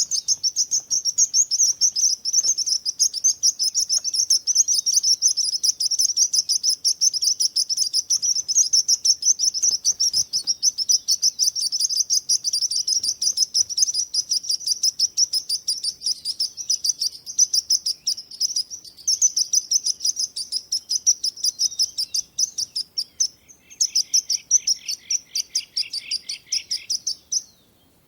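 Birds chirping rapidly and without pause in a high, dense stream. Near the end, a lower run of quick chirps joins in for a few seconds.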